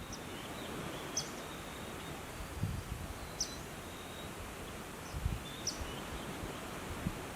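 Natural outdoor ambience: a steady hiss of background noise with short, high bird chirps every second or two, and a few soft low thumps.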